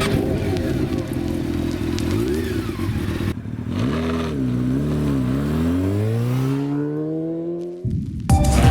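Motorcycle engine revving, its pitch dipping and rising a few times and then climbing steadily as it accelerates. The sound cuts off abruptly near the end.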